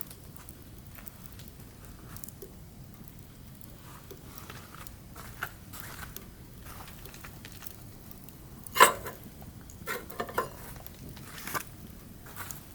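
Burning firewood crackling, with scattered small ticks and snaps and one loud pop about nine seconds in, followed by a few smaller pops.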